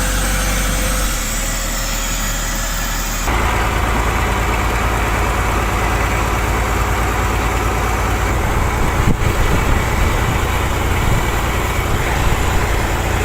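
Heavy-machinery engines running steadily with a deep rumble. The sound changes abruptly about three seconds in to a louder, denser engine noise.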